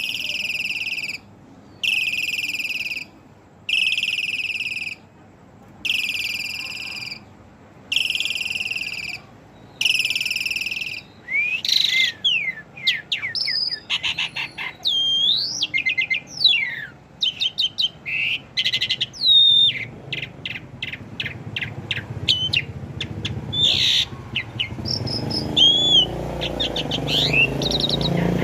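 Pied starling (jalak suren) calling and singing. It starts with a run of harsh, rasping calls about every two seconds, then breaks into a varied song of whistles rising and falling in pitch, mixed with rapid clicking runs. A low rumble comes in near the end.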